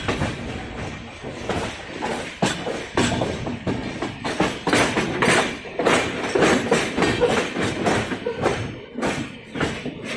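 Passenger train running at speed, its wheels clattering and knocking over the rail joints in an uneven stream of beats.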